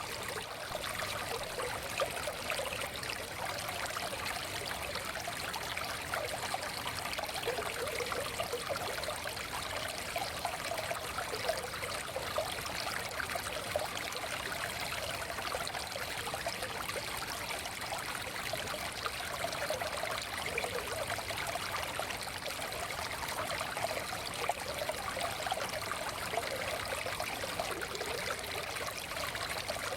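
Small forest stream running over stones, a steady babble with fine trickling and gurgling.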